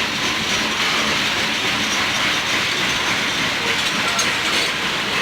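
Freight train cars rolling past with a steady rush of steel wheels on rail, with faint squeals near the end.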